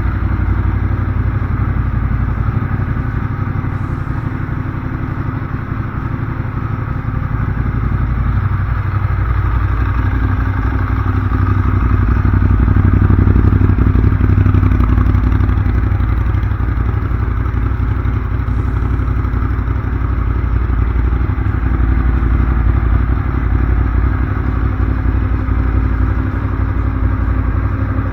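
Ducati Monster 821's L-twin engine idling through a Termignoni aftermarket silencer. About eight seconds in the revs rise slowly, hold for a few seconds, and then ease back to idle.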